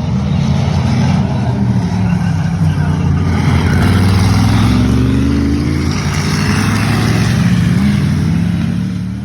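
Racing stock car engines running hard under load, their pitch rising and falling as they accelerate and ease off.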